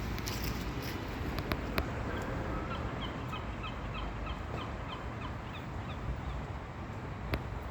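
A bird calling: a run of about ten short, evenly repeated notes, roughly three a second, over a steady background hum of traffic.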